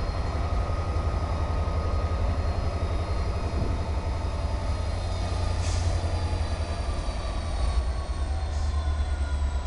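Freight train rolling on the rails: a heavy, steady low rumble with faint high wheel squeal tones that slide slowly down in pitch. A short hiss comes about six seconds in.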